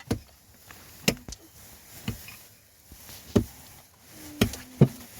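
A series of sharp knocking strikes, about one a second, with two coming close together near the end.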